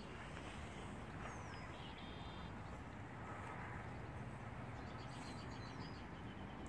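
Songbirds calling faintly over a steady low background rumble: several quick trills of rapid repeated notes and two short downward-sliding whistles.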